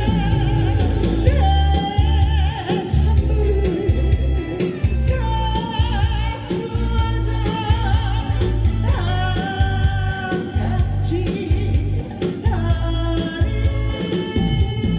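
A solo voice singing a song over instrumental accompaniment with a steady beat, holding some notes with vibrato.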